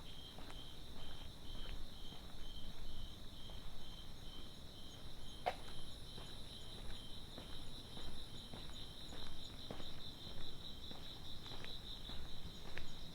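Night insects chirping: a regular chirp about twice a second over a steady high trill, with soft footsteps on pavement beneath and one sharper click about halfway through.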